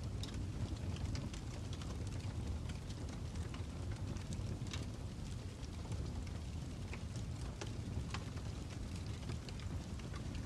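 Crackling fire ambience: a steady low rumble with scattered sharp pops and snaps throughout.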